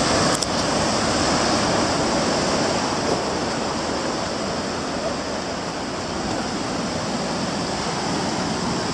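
Heavy ocean surf from big waves breaking, a steady rushing noise with no lulls, and a couple of faint clicks just after the start.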